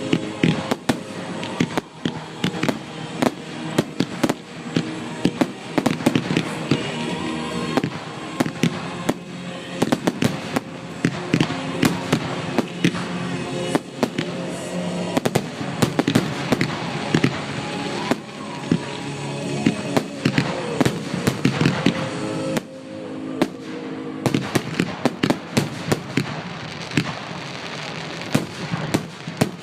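Fireworks display: a dense, irregular run of sharp bangs and crackles, several a second, with music playing underneath.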